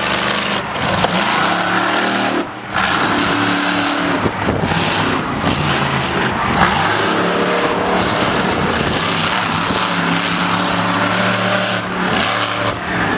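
Loud vehicle engine running and revving, its pitch shifting up and down, with a brief drop in level about two and a half seconds in.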